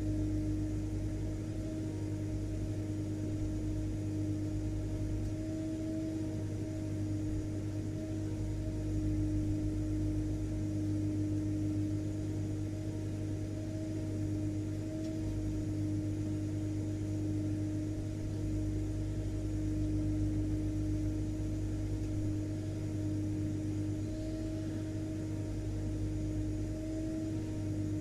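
Vacuum cleaner running steadily: a constant motor hum with an even rush of air, unchanging throughout.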